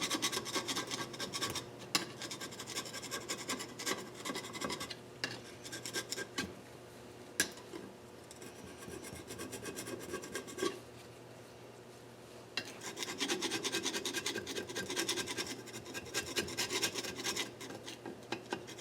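Rapid, repeated hand scraping and scrubbing while cleaning built-up crud off engine parts. The strokes ease to a few faint scrapes in the middle, then pick up again about 13 seconds in.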